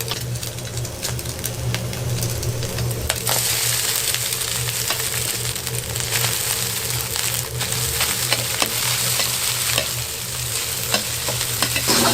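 Egg fried rice sizzling in a hot pan as it is stirred, with scattered clicks of the utensil against the pan and a steady low hum underneath. The sizzle grows louder about three seconds in.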